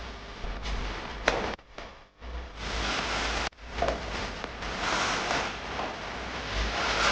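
Hand-work noises of patching drywall: scraping and rustling with a sharp click about a second in, broken by abrupt cuts.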